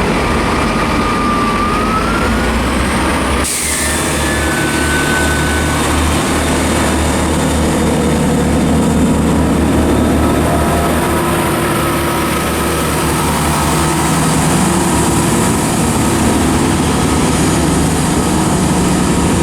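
Passenger trains moving at a station platform: the steady, loud running of a diesel multiple unit's engine, with rising whines from electric traction in the first few seconds and one sharp knock.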